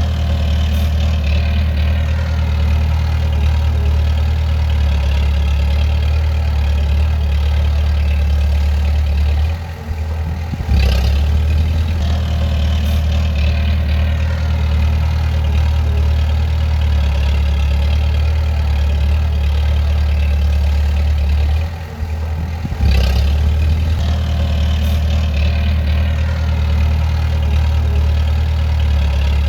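Bulldozer's diesel engine running steadily with a deep hum. Twice it dips briefly and then picks up again.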